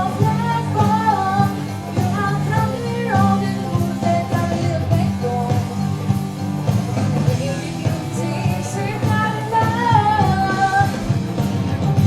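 A children's vocal group singing a country song with instrumental accompaniment and a steady beat.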